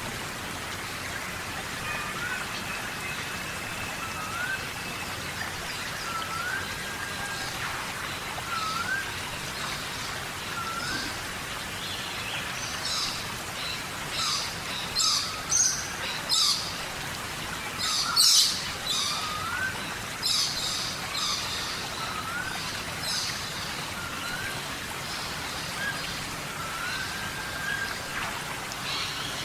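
Steady tropical rain falling, with an animal call, tagged as a bird, repeating a short rising note about once a second. Through the middle come bursts of high, rapid chirps.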